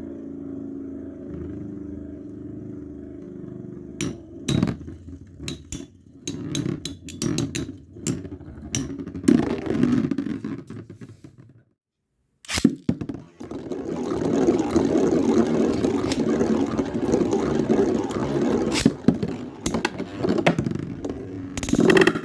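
Beyblade Burst tops Counter Escolpio 145D and Cyber Aquario 105RF spinning in a plastic stadium: a steady whirring hum at first, then repeated sharp clicks as the tops collide. After a sudden break about twelve seconds in, a loud, dense scraping whirr of spinning tops with frequent clacking hits.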